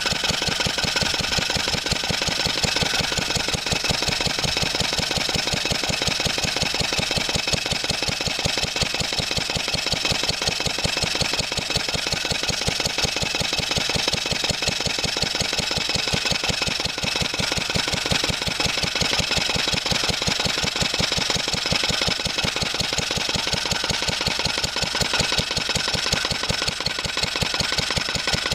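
A 1954 Wolseley WD8 single-cylinder stationary engine running steadily off load with an even, fast firing beat and a light tapping, which the owner puts down to the back plate he forgot to do up.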